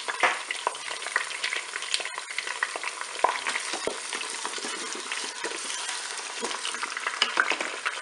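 Duck legs and chopped shallots sizzling in hot oil in a Cookeo multicooker's pot on its browning setting: a steady sizzle full of small crackles. A spatula stirs through them, knocking against the pot now and then.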